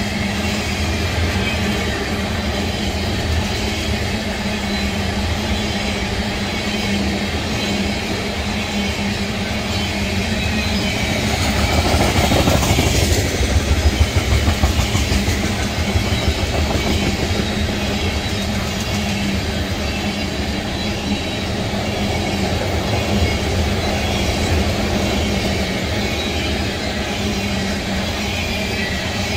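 Ethanol tank cars of a freight train rolling past, a steady rumble with the clickety-clack of wheels over the rail joints. It grows louder for a couple of seconds about twelve seconds in.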